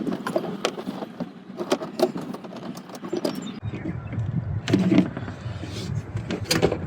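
Scattered clicks, taps and knocks of hands and tools working on parts in a truck's engine bay, with a low rumble coming in a little past halfway.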